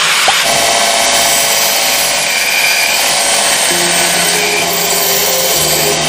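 A power tool running steadily under load, cutting or grinding material, over background music.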